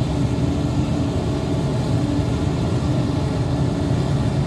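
CAT 320D2 hydraulic excavator's diesel engine running steadily under load while it digs heavy soil.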